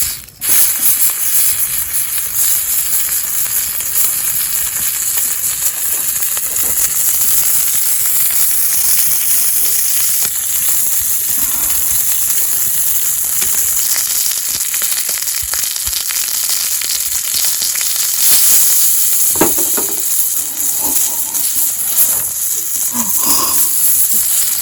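Meat sizzling steadily in its own rendered fat on a hot iron griddle, a dense, even hiss with fine spitting crackle.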